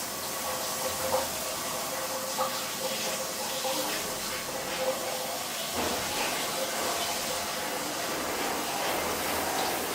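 Cold tap water running onto a hot frying pan in the sink, hissing with steam as the pan cools.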